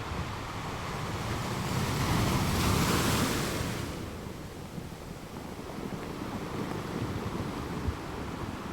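Ocean surf: a wave swells in, loudest about three seconds in, then washes back to a softer rushing.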